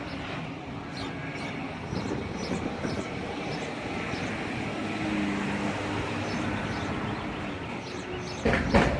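Steady rumble of heavy machinery at a construction site, with a steady engine hum for a couple of seconds midway and a loud knock near the end.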